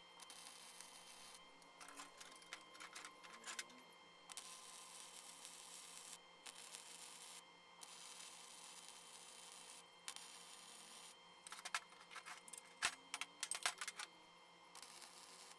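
Flux-core wire-feed welder arc crackling and hissing in several welds of one to a few seconds each, stopping and starting between beads. Near the end, a run of clinks and knocks as steel parts are shifted on the steel table.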